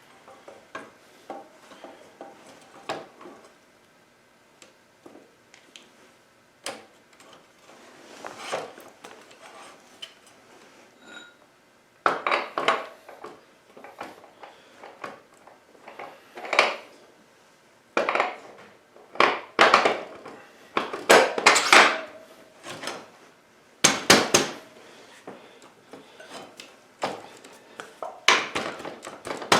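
Irregular metallic clinks and clanks of tools and motorcycle parts being handled while a dirt bike's rear wheel is fitted back in, sparse at first and coming thicker and louder about halfway through.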